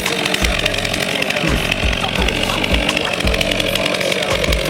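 Gas chainsaw running at high revs, its pitch wavering slightly up and down as it cuts into a tree.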